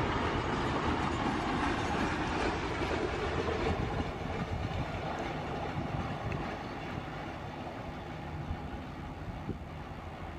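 Double-stack container freight train running past at speed, a steady noise of wagon wheels on the rails. It fades gradually as the end of the train draws away.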